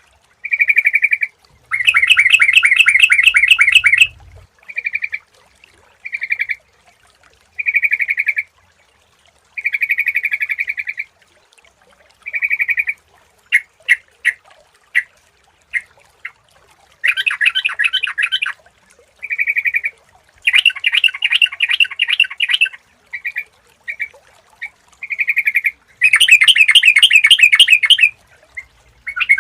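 Yellow-vented bulbul (trucukan) calling: short bubbly notes alternating with longer rapid chattering phrases about two seconds long, repeated with brief pauses. A run of short, sharp click-like notes comes about halfway through.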